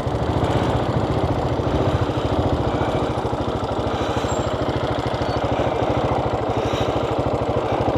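Motorcycle engine running at low revs with a fast, even pulsing beat, heard from on board the bike during a slow U-turn.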